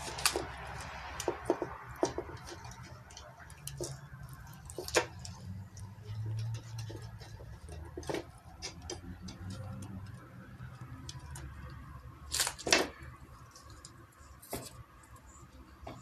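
Cats chewing on bark: irregular sharp cracks and crunches scattered throughout, loudest as two cracks about three quarters of the way in.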